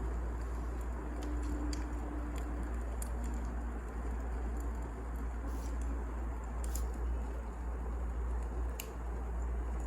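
Wood fire crackling: a steady low rumble and hiss with sharp snaps and pops at irregular moments.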